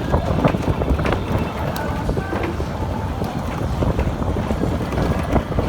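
Wind buffeting a phone microphone on a fast-moving fairground ride, a continuous low rumble with scattered clicks and rattles throughout.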